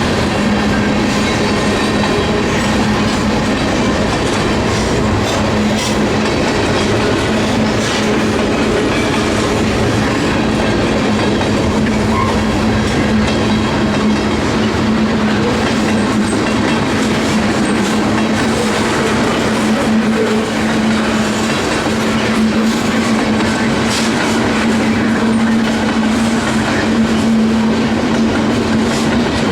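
Freight train cars rolling past: a steady rumble of steel wheels on the rails with faint clicks over the rail joints and a steady low hum under it.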